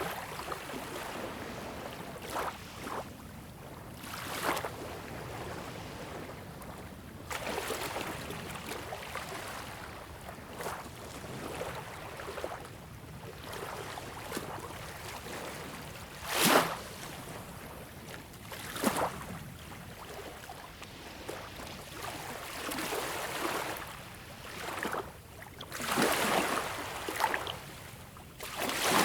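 Small, calm waves lapping at a beach shore: a soft steady wash broken by irregular splashes, the sharpest a little past the middle, with a larger wave swelling in near the end.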